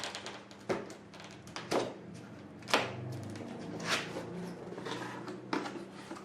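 A cardboard shipping box being opened by hand: a run of short rips, scrapes and knocks, about one a second, over a faint steady hum.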